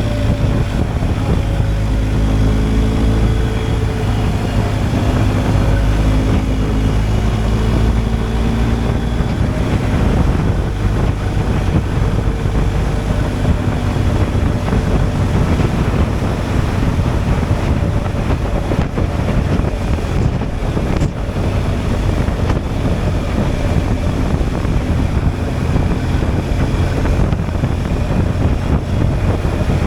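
BMW R 1250 GS Adventure's boxer-twin engine running under way on the road, its note shifting in the first several seconds and then holding steadier, with wind noise buffeting the microphone.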